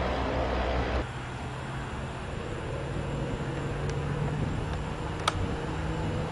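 Steady low vehicle rumble, with a single sharp click about five seconds in.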